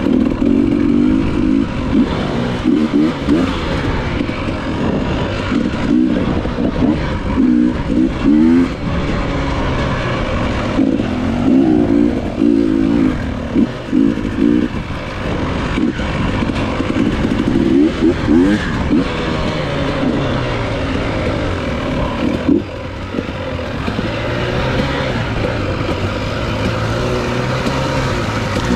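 Enduro dirt bike engine running and repeatedly revving up and down.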